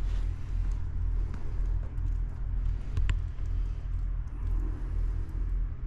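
Steady low engine-like rumble, with a single sharp click about three seconds in.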